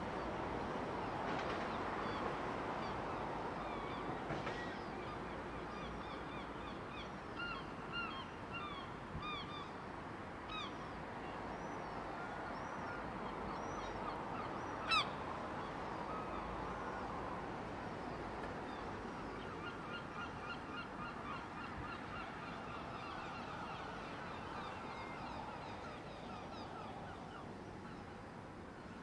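Birds calling outdoors in short, arching calls, scattered at first and then in quick repeated series, over a steady background of outdoor noise. One sharp rising squeak, the loudest sound, comes about halfway through.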